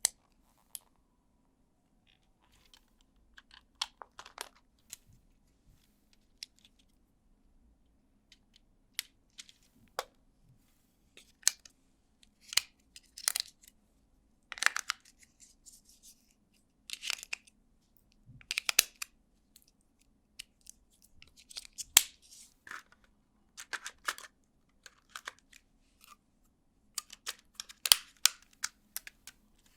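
LEGO Technic plastic parts being handled and pressed together: irregular sharp clicks and snaps, with short bursts of rattling and scraping as pieces are picked up and fitted.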